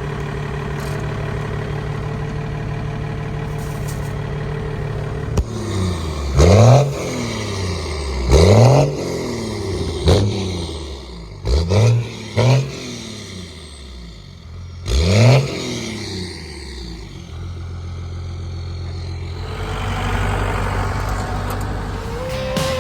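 Dodge 5.9 Cummins 12-valve diesel, still cold from a cold start without the block heater, idling steadily and then blipped up in about six quick revs, each rising and falling back, before settling to idle again.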